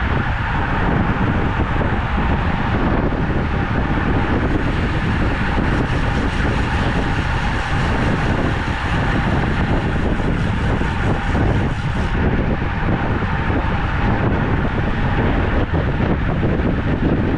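Steady wind noise buffeting the microphone of a camera carried on a road bike that is moving at speed.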